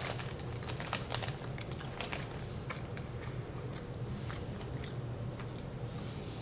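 Close-up chewing of a bite of soft, bready gingerbread with a dark chocolate backing: scattered small clicks and wet mouth sounds.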